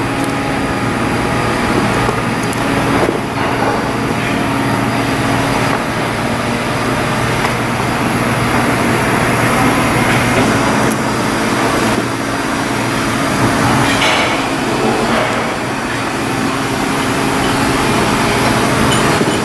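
Loud, steady machinery noise with a low hum and scattered knocks and clatters.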